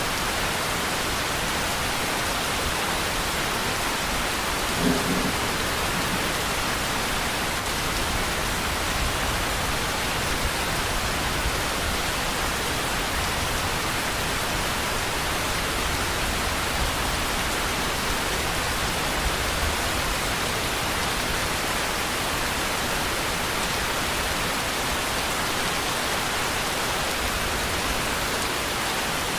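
Steady heavy rain hissing evenly, with low rumbles of distant thunder underneath. A brief low sound stands out about five seconds in.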